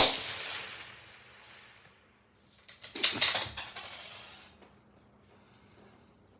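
A rifle shot right at the start, its report dying away over about two seconds. About three seconds in comes a quick run of metallic clicks and clacks as the rifle's action is worked to chamber the next round.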